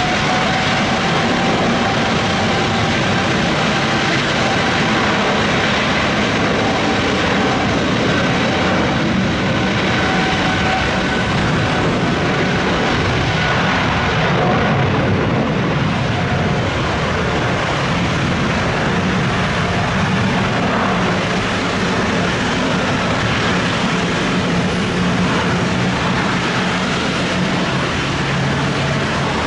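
Boeing 777's twin jet engines at takeoff thrust on departure: a loud steady roar carrying a thin fan whine that rises slightly at the start and fades out about halfway through, leaving a deeper rumble.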